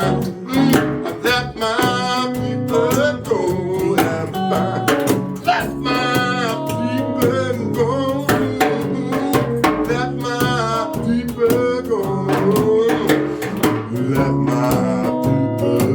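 Live blues music: a guitar keeps a steady rhythmic backing while a lead melody line bends and slides in pitch above it.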